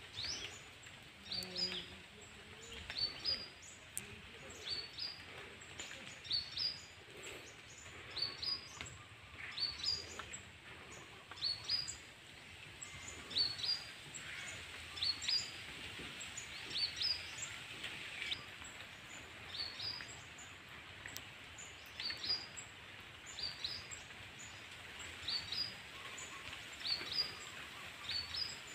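A bird calling over and over, with short high chirps repeated about once or twice a second, over a steady faint outdoor hiss.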